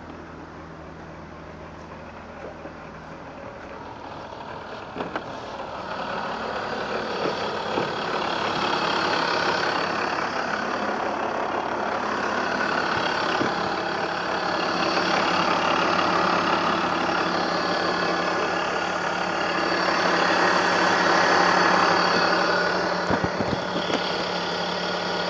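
BMW E46 320i's straight-six engine running cold, with a broad mechanical noise that swells in about five seconds in and stays loud, and a few short clicks.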